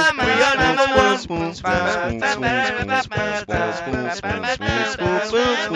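Multitracked a cappella voice imitating a pop song's instrumental: layered wordless sung lines standing in for the synth and brass parts, over vocal percussion keeping a steady beat.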